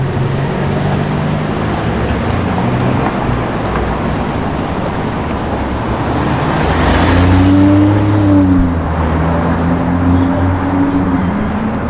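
A car engine running in street traffic, over a steady haze of road noise. About two thirds of the way through it gets louder and its pitch rises and then falls back, a brief rev or pull-away.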